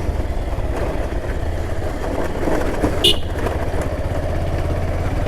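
Motorcycle engine running steadily under way, picked up by the rider's own mic, with one short, sharp high sound about three seconds in.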